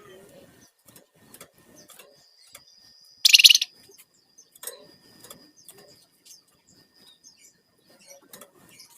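Flamboyan (wergan jawa) songbird singing: a thin, high whistle held for several seconds, broken about three seconds in by one loud, harsh burst, with short clicks scattered throughout.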